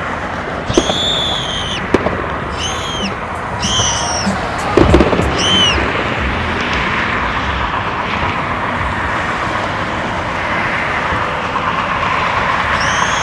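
Fireworks going off: sharp cracks and a loud cluster of bangs about five seconds in, with several short, high whistles that rise and fall. Underneath is a steady wash of outdoor crowd and traffic noise.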